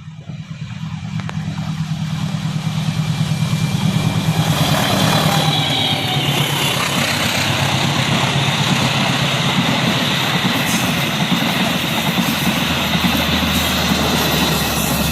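Passenger train approaching and passing: the locomotive's engine hum swells over the first few seconds, then the carriages keep up a steady rumble on the rails with a thin metallic ringing of wheels.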